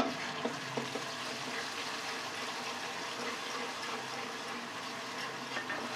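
Ground masala paste of onion, ginger, garlic and garam masala dropped into hot oil with cumin seeds in a kadai, landing with a brief splat and then sizzling steadily as a spatula spreads it.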